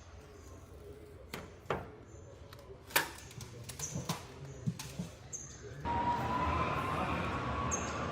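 Scattered sharp knocks and clicks of assembly work on a truck production line, then about six seconds in a machine starts running with a steady rush and a faint, slowly rising whine.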